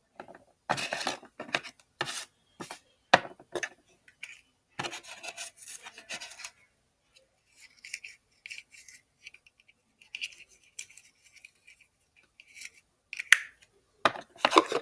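Small plastic toys and set pieces being handled and moved about: sharp clicks and knocks in the first few seconds and again near the end, with scraping and rubbing between them.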